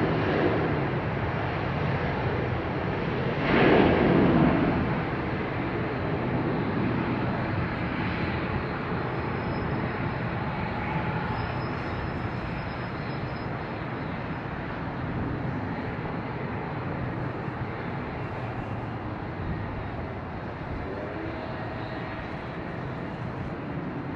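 Jet airliner landing, its engine noise a steady rumble that slowly fades. A brief louder burst comes about four seconds in.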